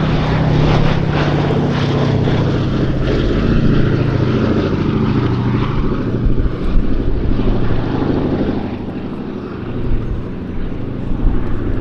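Boeing B-17G Flying Fortress's four Wright Cyclone radial engines droning in flight, a steady propeller-plane note that fades noticeably about nine seconds in and then swells slightly again.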